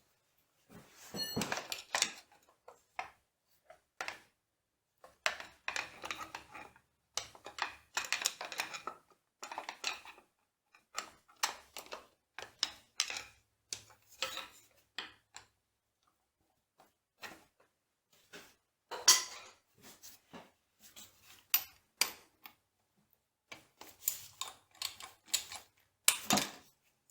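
Metal tools and machine parts clinking and clanking as they are handled, in irregular clusters of sharp knocks with brief pauses between them.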